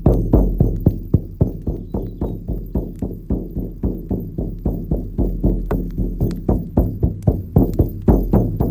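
Shaman's frame drum beaten in a steady, even rhythm of about four strokes a second, each stroke a low, ringing thud.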